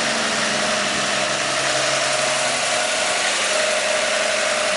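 An engine idling steadily: a constant noisy hum with a faint steady whine over it and no change in speed.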